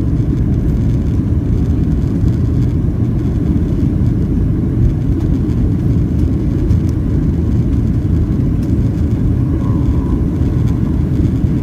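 Airplane taking off: a steady, loud, low rumble of engines and rushing air.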